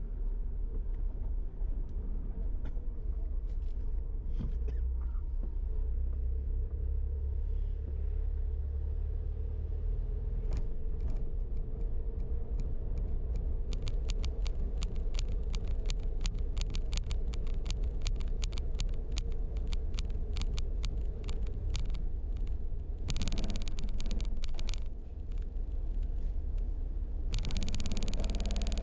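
Car rumbling low and steady as it is driven slowly aboard a car ferry. From about halfway a long run of rapid clicks joins it, and near the end there are two short bursts of hiss.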